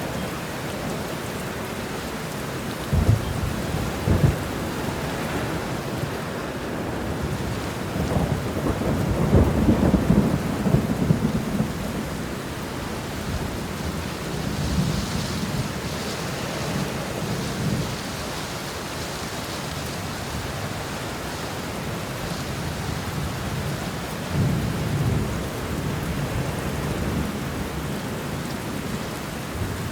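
Steady rain with thunder over it: two short claps about three and four seconds in, a long rumble from about eight to twelve seconds that is the loudest part, and fainter rumbles later on.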